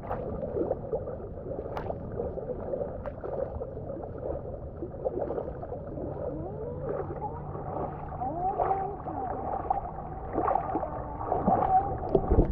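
Muffled water sloshing and gurgling around a camera in or under river water, dull with little treble, with faint wavering tones and occasional knocks.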